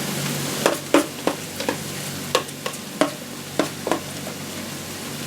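A spoon knocking and scraping green bean casserole mixture out of a bowl into a baking pan: about ten sharp clinks, some briefly ringing, in the first four seconds. Under them is the steady sizzle of bell peppers and onions frying in a skillet.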